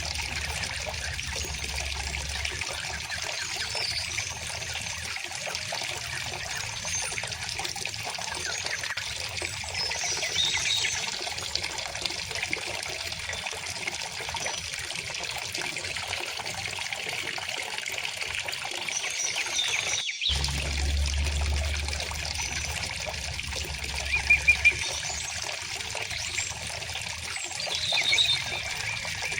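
River water flowing steadily, a continuous rushing and trickling, with songbirds chirping and calling here and there above it, including a quick run of three chirps about two-thirds of the way through.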